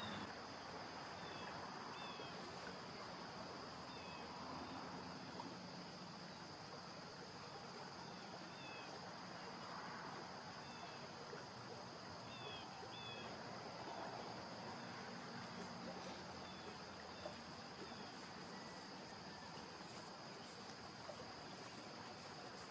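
Quiet outdoor ambience: a steady high-pitched insect trill, with small birds giving short chirps now and then.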